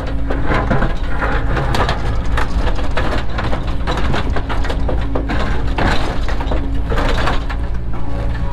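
Cat 307 excavator's diesel engine running steadily under an irregular clatter of knocks and scrapes, the sound of the bucket working stone and soil.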